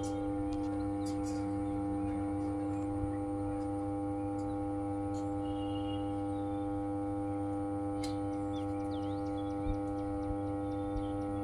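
Power transformer humming steadily, a stack of level mains-hum tones with the strongest one low and bright. Faint clicks and small high chirps come and go over it.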